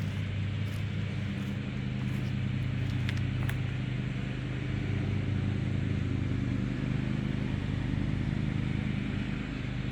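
An engine running steadily at a constant speed, with no revving, and a few faint clicks.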